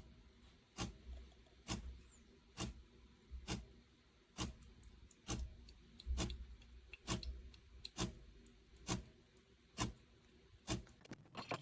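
Regular sharp clicks, a little more than one a second, several with a short low thud beneath them.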